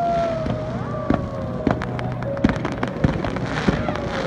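Aerial fireworks bursting: a run of sharp bangs and crackles, thickest about halfway through, over a steady rumble, with a long falling whistle near the start.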